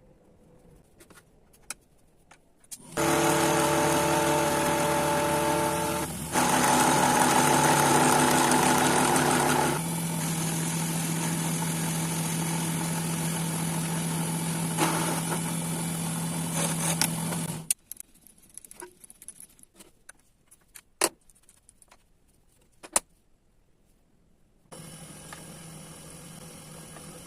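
Mini lathe's electric motor and spindle running with a steady whine, stepping to a new speed twice, then stopping suddenly. A few sharp clicks follow, and near the end the lathe runs again more quietly.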